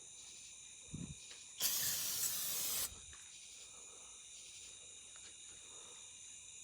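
A can of aerosol parts cleaner sprays in one burst of hiss lasting just over a second, aimed at wasps to kill them; a soft knock comes just before it. Faint, steady insect chirring runs underneath.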